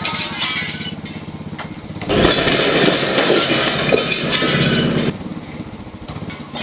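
Motorcycle engine running, with a much louder, noisier stretch of about three seconds starting about two seconds in.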